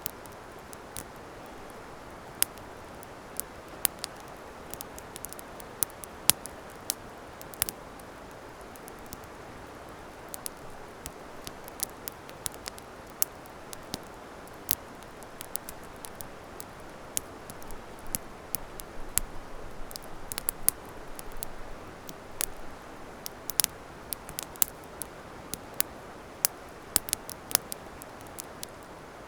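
Wood campfire crackling: sharp, irregular pops and snaps over a steady hiss, with the pops coming more often in the second half.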